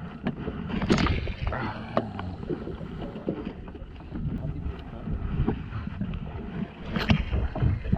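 Water sloshing and slapping against a small fishing boat at sea over a low rumble, with wind on the microphone. Two louder splashes come about a second in and near the end.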